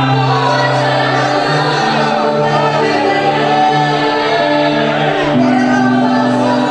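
Gospel music: a group of voices singing a Christian song over instrumental backing, with held bass notes that step from one to the next every second or so.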